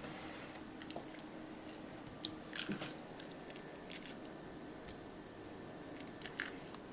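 Soft squishing and light clicks of avocado halves being handled, the flesh worked out of the peel.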